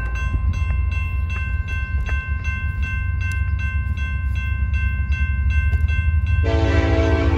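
Train rumbling past with a heavy low rumble while a bell rings steadily at about three strikes a second. About six and a half seconds in, the locomotive's air horn starts a long blast.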